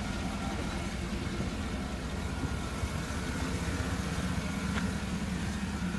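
2008 GMC Denali's engine idling steadily, a low even hum.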